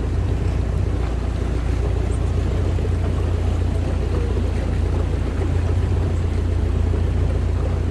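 Longtail boat engine running steadily, a constant low rumble heard from aboard the boat.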